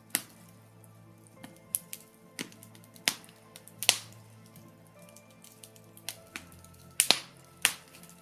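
Birch logs burning in a fireplace, crackling with irregular sharp pops. The loudest pops come about three seconds in, just before four seconds, and twice around seven seconds. A faint steady low hum runs underneath.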